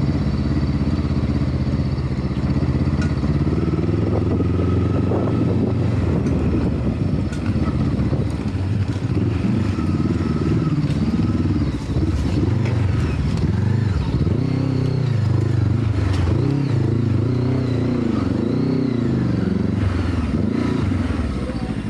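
Motorcycle engine running at low revs, its pitch rising and falling again and again as the throttle is worked, with scattered light clatter.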